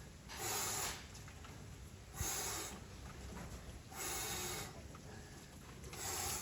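A man breathing out hard and sharply, once with each lift during a weight exercise: four breaths about two seconds apart.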